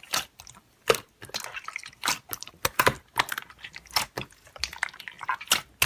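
Slime being squished and worked by hand, giving irregular crackly pops and clicks.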